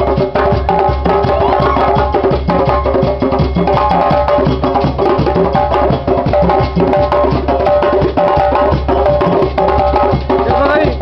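Drum-driven music for a Balanta Afro dance: fast, steady hand-drum and sharp woodblock-like strikes with held melodic tones over them.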